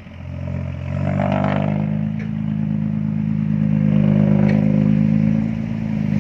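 Heavy diesel engine revving up about a second in, then running hard at a steady pitch.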